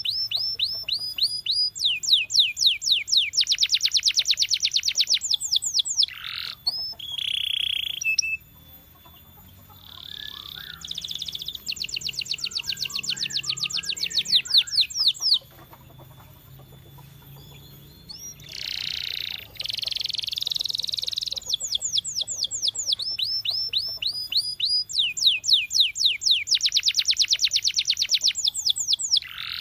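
Domestic canary singing: long phrases of fast trills, each a rapid run of repeated high notes, broken by short pauses about eight and sixteen seconds in.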